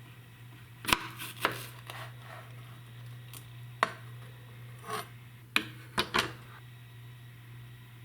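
Hands handling a freshly picked tomatillo, with rubbing and scraping and several sharp clicks or knocks spread through. A faint low hum runs underneath.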